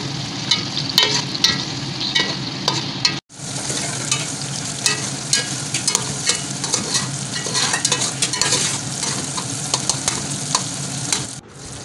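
Diced tomatoes sizzling in hot oil in an aluminium pot while a slotted spoon stirs them, with frequent clicks and scrapes of the spoon against the pot. The sound cuts out for an instant a little over three seconds in.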